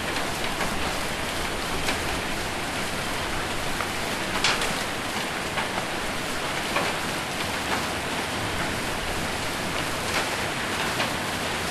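Rain and hail on a metal roof: a dense, steady hiss with scattered sharp hits, one louder hit about four and a half seconds in.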